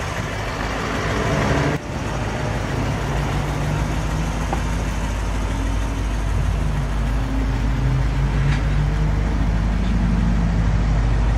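The 2008 Lexus IS-F's 5.0-litre V8 idling steadily, a continuous low rumble heard from outside the car, with a brief dropout about two seconds in.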